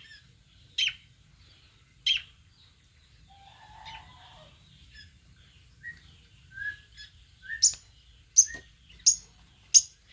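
Long-tailed shrike (cendet) calling in short, sharp notes. There are three loud notes about a second apart in the first two seconds, then a quieter stretch of softer, lower notes. From about three-quarters of the way in comes a faster run of loud sharp calls, roughly every two-thirds of a second, each led by a brief lower note.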